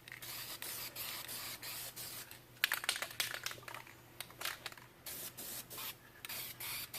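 Aerosol spray-paint can hissing in short, broken bursts, the can running low on paint. A quick run of sharp clicks comes about three seconds in.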